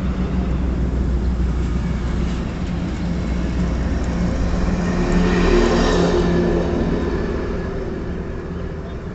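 Road vehicle engine running steadily, growing louder to a peak about five to six seconds in and then fading, as of a vehicle passing close by.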